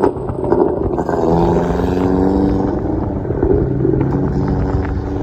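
Turbocharged car engine running under throttle, a steady pitched drone that shifts up and down in pitch, with a sharp click right at the start.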